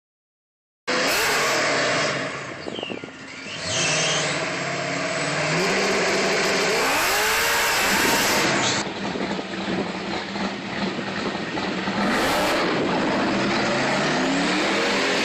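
Car engine running loud through an aftermarket exhaust. It starts abruptly about a second in, dips briefly, and is revved up a couple of times with rising pitch.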